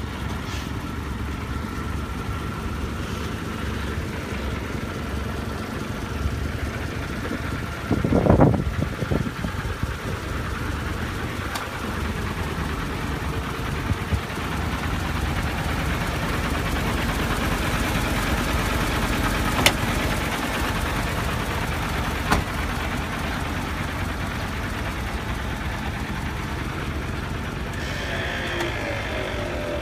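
Diesel engine of an Isuzu concrete mixer truck running steadily at idle, with a brief louder burst about eight seconds in and a few sharp clicks later on.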